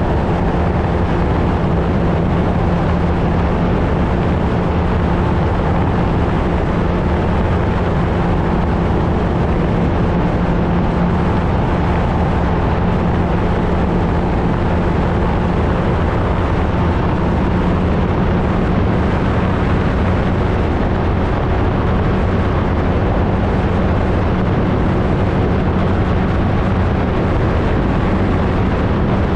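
Flightstar II ultralight's engine and propeller running at a steady, unchanging speed, with heavy wind rumble on the airframe-mounted camera.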